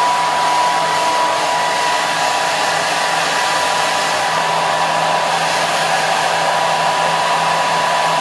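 Hair dryer running steadily: a loud, even rush of air with a steady high whine from the motor and a low hum underneath.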